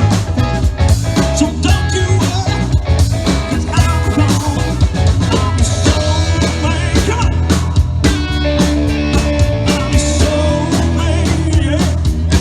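Rock and roll music with a steady drum kit beat, guitar and singing.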